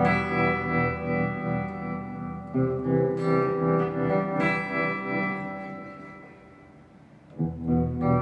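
Electric guitar played through a Mooer GE100Pro multi-effects preset: chords struck and left ringing, with new chords about two and a half, three and four and a half seconds in. The last chord fades away before fresh chords are struck near the end.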